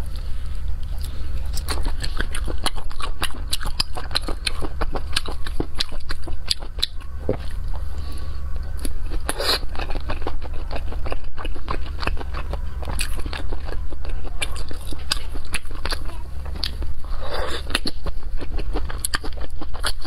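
Close-miked chewing and biting of saucy food by a person eating: an uneven stream of quick wet clicks and squelches from the mouth.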